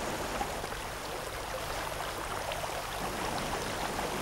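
Steady running water of a stream, with a few faint clicks over it.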